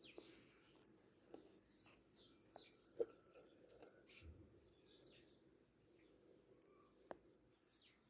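Faint, scattered chirps of bulbuls and sparrows, with a few sharp clicks; the loudest click comes about three seconds in.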